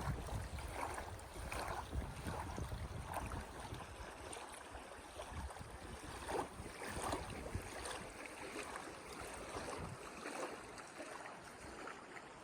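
Faint, steady outdoor rushing noise with wind rumbling on the microphone. The rumble dies away about ten seconds in.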